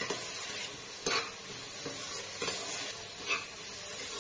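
Chana dal frying in an open pressure cooker, sizzling steadily as a spatula stirs it and scrapes against the pot several times.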